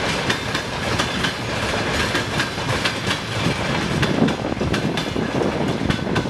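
Freight train of open-top wagons rolling past: a steady rumble of wheels on the rails, with a run of clickety-clack clicks as the wheels cross the rail joints.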